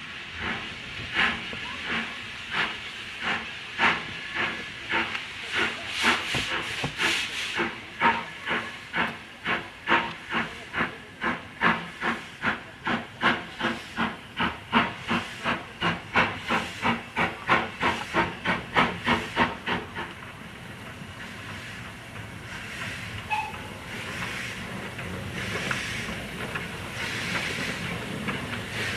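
Industrial steam tank locomotive working a train, its exhaust beats quickening from slow, spaced chuffs to a fast, even rhythm of about two and a half a second. The beats stop about twenty seconds in, leaving a steady hiss and rumble.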